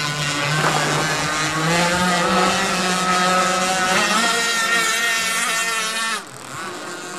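Twin Zenoah G26PUM 26cc two-stroke gas engines of a large RC speedboat running at speed, a high buzzing whine that wavers in pitch. It drops off sharply about six seconds in.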